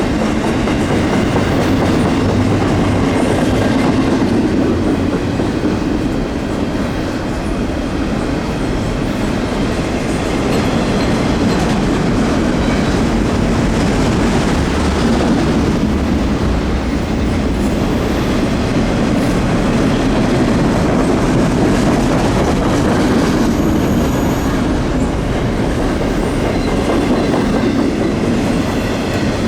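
Intermodal freight train's container well cars rolling past at close range: a steady rumble with continuous clickety-clack of the wheels over the rails.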